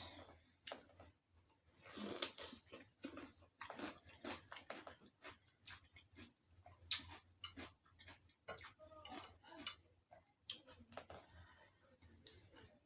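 A person chewing food close to the microphone: a run of irregular crunches and clicks, loudest about two seconds in.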